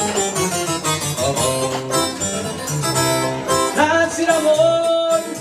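Live band playing an instrumental break in a song, a guitar carrying the melody with a long held note near the end.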